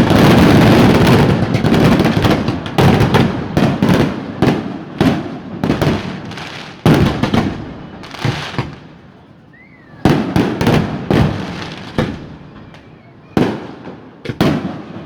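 Fireworks going off in rapid bangs and crackles, densest in the first few seconds, then single reports with short lulls between clusters.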